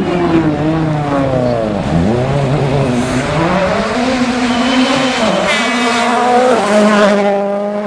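Rally car engine revving hard at full stage pace. Its pitch rises and falls repeatedly with gear changes and throttle lifts, then climbs steeply about five and a half seconds in.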